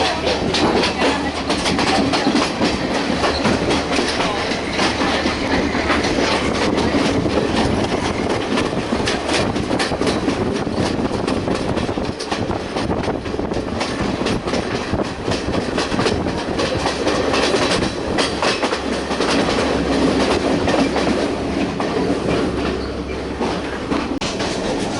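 Passenger train running along the line, heard from inside the carriage: a steady rumble with a dense, irregular clatter of the wheels over the rail joints.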